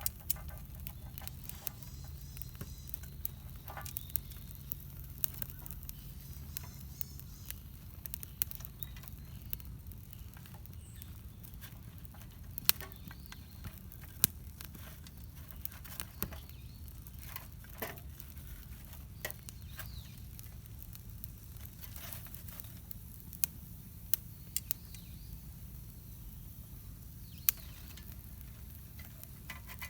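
Wood campfire crackling: irregular sharp pops and snaps of burning wood, a few of them much louder than the rest.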